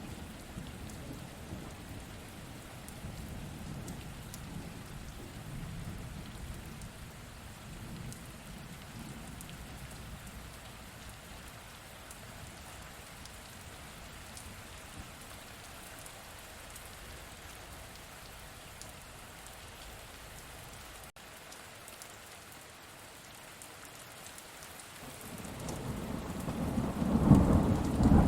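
Steady rain falling during a thunderstorm. Low thunder rumbles and fades over the first part, and near the end a loud peal of thunder builds up.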